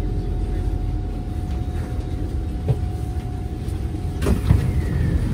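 Interior of a Kawasaki C151 MRT train in motion: a steady low rumble with a thin steady hum over it. About four seconds in, the hum stops and a short burst of hiss and a few knocks follow.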